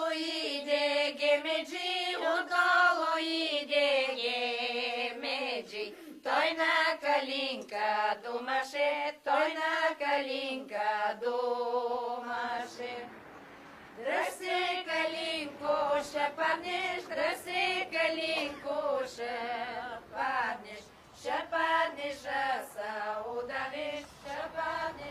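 Music of women's voices singing together in a choir-like chant, wavering in pitch, with a short pause about halfway through.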